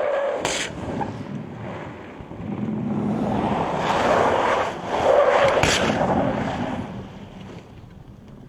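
A car driven at speed on a test track: engine and tyre noise swells from about two seconds in, is loudest around four to six seconds in, then fades away.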